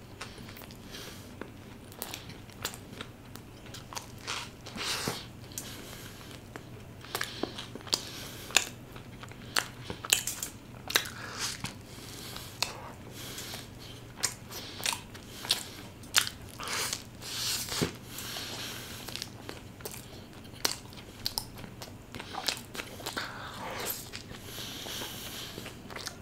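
Eating sounds: biting into and chewing a chicken cheese momo burger with a potato patty, with many irregular sharp clicks of mouth and food throughout.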